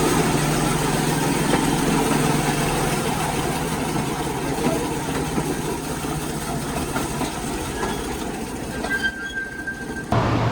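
Small tourist trolley running along narrow-gauge rails: a steady rumble and rattle of wheels on track that eases off near the end.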